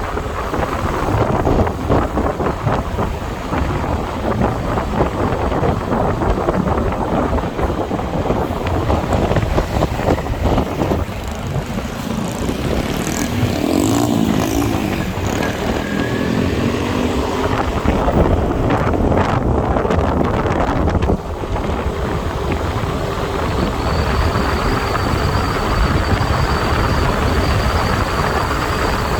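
Motorbike ride noise in traffic: wind rushing over the microphone along with engine and road noise. There is a brief wavering engine pitch a little before halfway.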